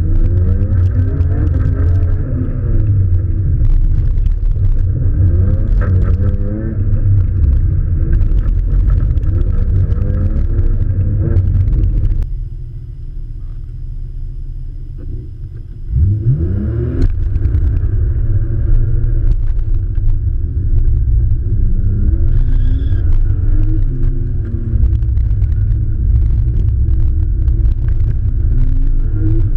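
A car engine revving up and down again and again as it is driven hard through a course, with heavy low rumble, picked up dull and muffled. About twelve seconds in it settles to a quieter steady drone for a few seconds, then revs sharply back up and carries on rising and falling.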